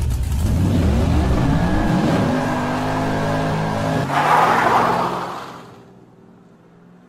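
Sound-effect car engine revving up and down in repeated sweeps. About four seconds in comes a louder burst of tyre squeal, and the sound then fades out.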